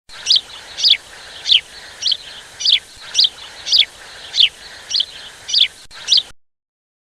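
A bird repeating a short, sharply down-slurred high call about twice a second, eleven times, over a faint background hiss; it cuts off suddenly about six seconds in.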